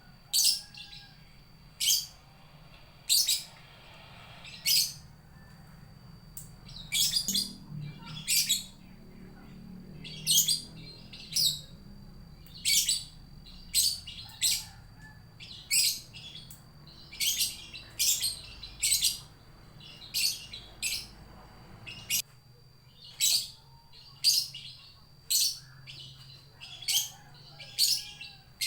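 Lovebird giving short, shrill, high-pitched calls, repeated about once a second and sometimes in quick pairs, the calling of a lone bird looking for its companion.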